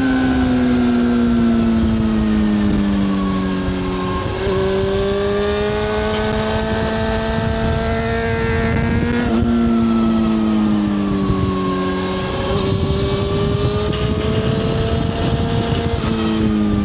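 Honda CBR600F4i inline-four sport bike with a MIVV slip-on exhaust, heard from onboard over a rush of wind. The engine pitch sags off the throttle, then climbs slowly on the throttle with a high whine above it, and the pattern happens twice.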